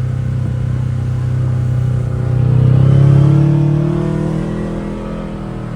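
ATV engine running steadily, then revving up about two seconds in, loudest around three seconds, and easing back off.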